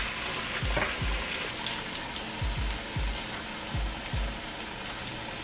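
Starch-dredged cauliflower florets shallow-frying in hot oil at about 200 °C, a steady crackling sizzle, with background music's deep beat underneath.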